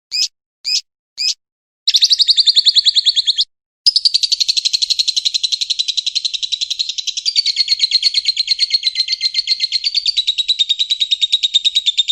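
A cage bird calling: three short high chirps, then a rapid chattering trill that breaks off briefly and resumes about four seconds in as one long, unbroken trill.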